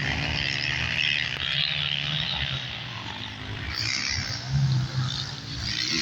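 Motocross bikes' engines revving up and down as they race, with the loudest pass about four and a half seconds in.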